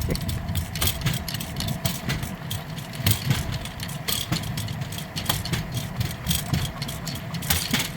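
Steel wheels of a pedal-powered rail bike rolling along old railroad track: a steady rumble with frequent irregular clicks and rattles from the rail joints.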